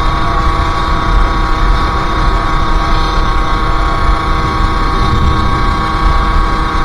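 Sherco SM-R 50's 50cc two-stroke engine running at steady revs, holding one steady high-pitched note, with a low rumble underneath.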